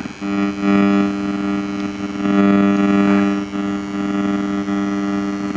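An RC warbird's engine-sound module is giving off a steady electronic buzzing hum through its speaker, made of several fixed tones that swell and dip in loudness. It is unwanted noise from radio interference on the module, and it cuts off abruptly near the end.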